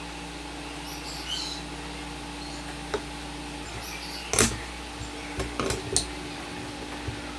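Sharp clicks and knocks from hand work: one near three seconds, the loudest about four and a half seconds in, and a quick cluster around six seconds, over a steady low hum. Faint high chirps about a second in.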